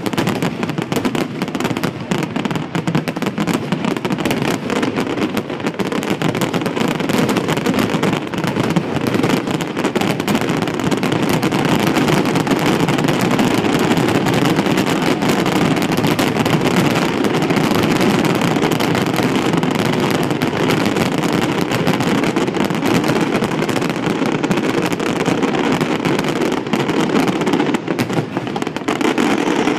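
Fireworks finale: a continuous barrage of overlapping shell bursts and crackling from many shells going off at once. The separate bangs are thickest in the first dozen seconds, then blur into a steadier, dense crackle.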